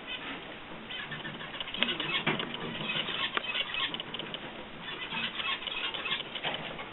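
Small cage birds moving about: wings flapping and a busy patter of short clicks and chirps.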